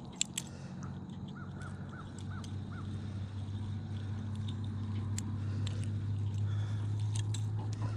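A steady low hum that slowly grows louder over several seconds and stops abruptly at the very end, with a bird giving five short repeated calls about one and a half seconds in and a few light clicks.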